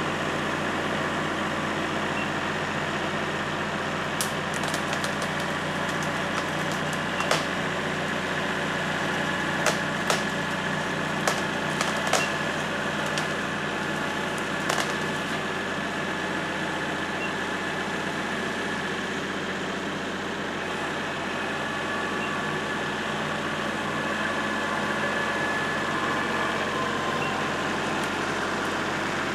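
Kubota L3301 tractor's three-cylinder diesel engine running steadily under a pull, with scattered sharp cracks and snaps of rotted wood, most of them from about four to fifteen seconds in.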